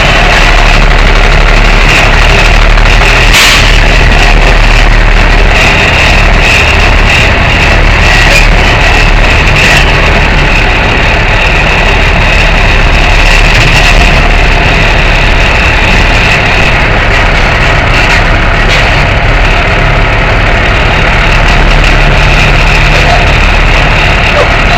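Tow truck's engine running steadily and loudly, heard from a camera mounted on the truck, with a few short sharp clicks or rattles, the clearest about three seconds in and another near ten seconds.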